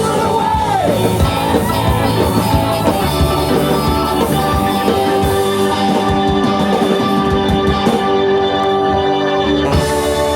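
Live rock-and-roll band playing an instrumental stretch at the end of a song, with steady held chords over the drums.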